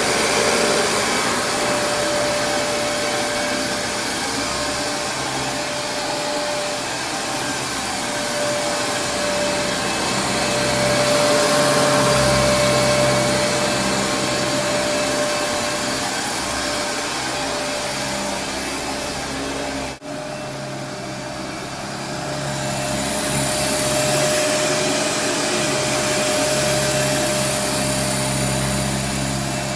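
Kenmore Progressive DirectDrive upright vacuum cleaner running: a steady motor whine over a dense rush of air, swelling and easing a little in loudness. It drops out for an instant about two-thirds of the way through.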